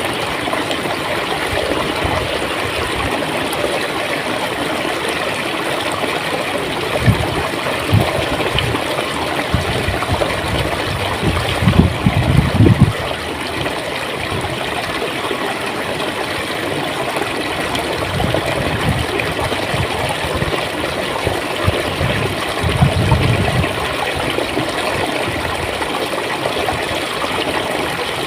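Clear stream water flowing and gurgling steadily, with a few deeper, louder gulps of water at moments, the strongest about twelve seconds in.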